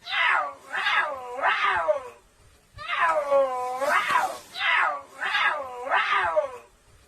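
Repeated high-pitched animal calls, each about half a second long, with a pitch that dips and then rises again. They come in runs of three or four with short pauses between.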